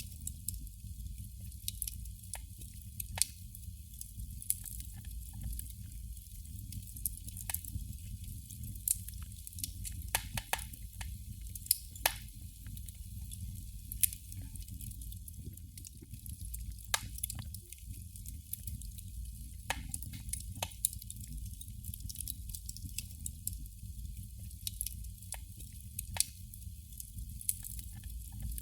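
Candle flame crackling: irregular sharp pops and ticks at an uneven pace, a few louder ones around the middle, over a steady low hum.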